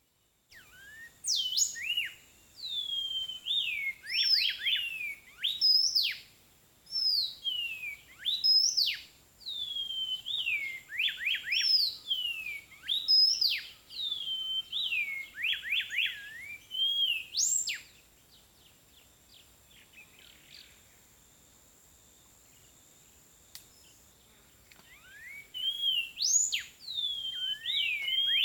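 A bird singing in tropical forest: repeated phrases of clear whistles that slide downward, each ending in a quick run of falling notes, with a pause of several seconds before the song resumes near the end. A faint steady high-pitched tone runs underneath.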